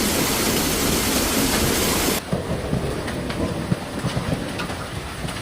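Hail and rain pelting down in a dense, steady roar. About two seconds in the sound cuts abruptly to sparser, separate sharp knocks of hailstones striking hard surfaces.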